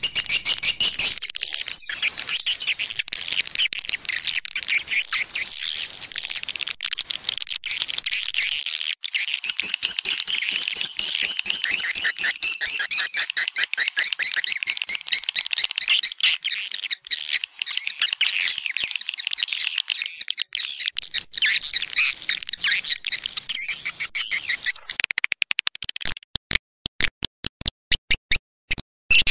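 Swiftlet call recording (a lure call for edible-nest swiftlets) played back: dense, continuous high twittering chirps. Near the end it gives way to a rapid run of short sharp clicks.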